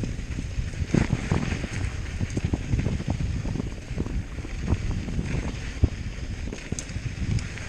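Hardtail mountain bike rattling and knocking over a rough dirt trail, with irregular thuds several times a second from the rigid rear end and tyres hitting rocks and ruts, under wind noise on the microphone.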